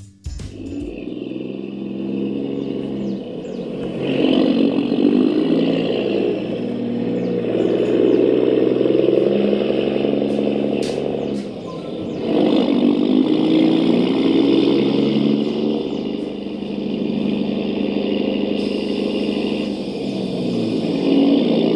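Radio-controlled truck driving, its motor and drivetrain giving a continuous engine-like drone that swells and eases, with a brief dip about eleven seconds in.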